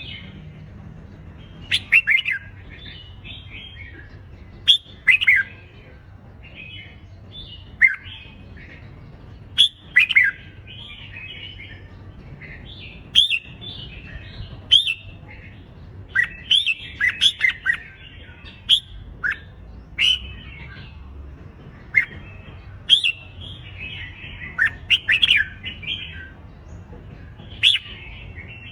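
Red-whiskered bulbuls in competitive fighting song, with short, quick phrases of bright chirps coming every second or two. The phrases sometimes overlap as birds answer one another.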